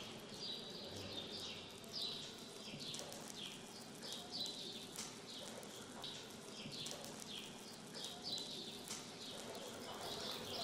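Small birds chirping: quick, faint, falling chirps repeated several times a second, over a soft background hush.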